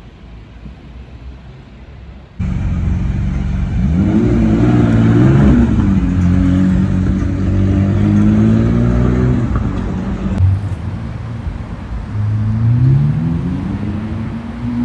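Sports car engine revving, rising in pitch, then running on steadily before revving up again near the end. It comes in abruptly a couple of seconds in, after quieter street noise.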